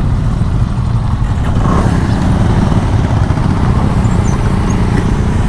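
Bajaj Avenger motorcycle engine running steadily under way, heard with a dense, rapid low pulse.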